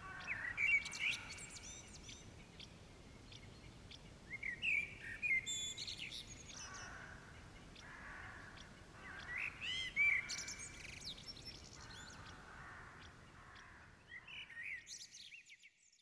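Several birds chirping and singing in repeated bursts of quick rising and falling notes, with fainter calls underneath. It fades out near the end.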